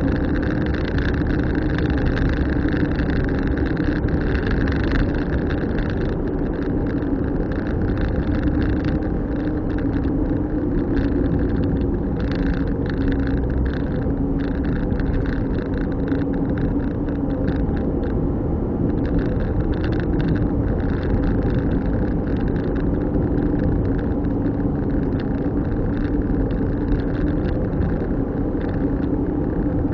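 Car driving at a steady speed: a steady low engine drone over continuous road and tyre noise.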